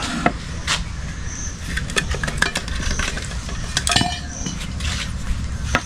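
Metal pots and utensils being handled, giving irregular light clinks and knocks.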